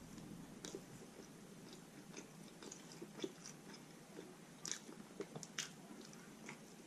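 Quiet close-up chewing and biting of roast chicken: scattered small mouth clicks, with a few louder ones about five seconds in.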